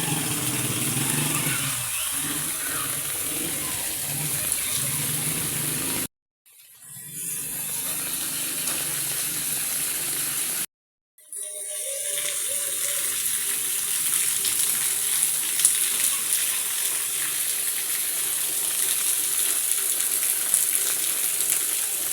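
Heavy rain falling as a steady hiss, broken twice by a sudden dropout of about half a second.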